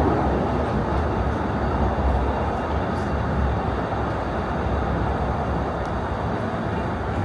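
Disneyland Railroad steam train rolling along its track, heard from aboard a passenger car as a steady rumble with a few faint clicks.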